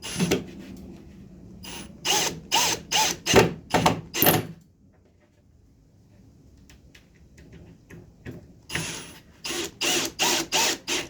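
Power driver running screws into wood in short trigger bursts: a run of about six quick bursts early on, a pause, then another run of bursts near the end as each screw is driven home.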